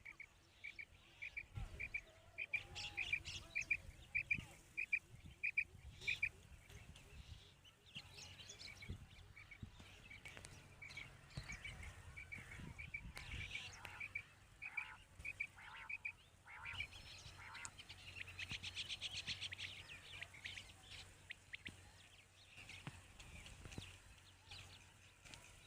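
Female quail calling as a lure for netting: runs of short, high, evenly spaced notes, about two to three a second, with a faster trill about eighteen seconds in.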